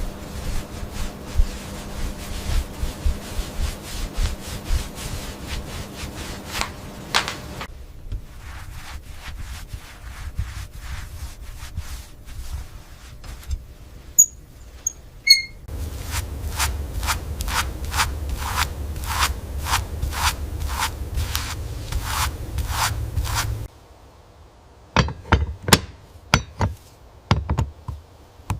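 Rapid, evenly repeated rubbing strokes on a hard surface, about two or three a second, like hand sanding or scrubbing, in runs with a low hum underneath. The strokes stop near the end, leaving a few sharp taps and clicks.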